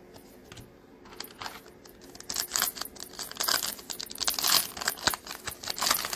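Foil wrapper of a 2021-22 NBA Hoops trading card pack being torn open and crinkled by hand, a rapid crackling that grows louder about two seconds in.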